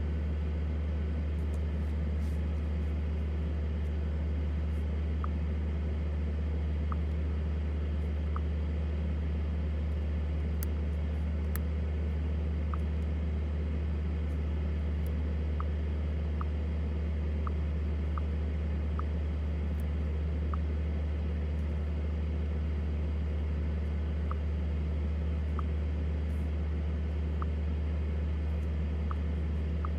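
Steady low drone of engine and road noise inside the cabin of a 2023 BMW X7 40i driving at a constant pace, with a few faint scattered ticks.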